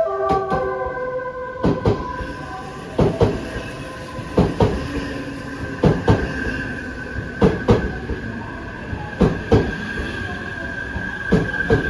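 Odakyu 50000 series VSE train rolling slowly over a rail joint, its wheels clicking in pairs about every second and a half, the pairs coming gradually further apart as it slows to stop. A steady high whine runs underneath.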